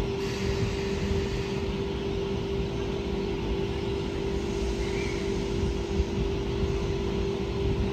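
A train at a station, with a steady hum held at one pitch over low rumble and noise, unchanging throughout.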